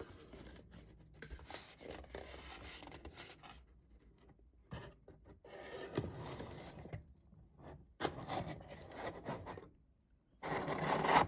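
Paper and cardboard rubbing and scraping as a stuck paper leaflet is worked out of a keyboard box, with scattered small clicks and a louder rustle near the end.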